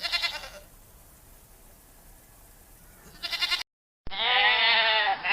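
Domestic goat bleating with a quavering voice: two short bleats, then a long, loud bleat near the end.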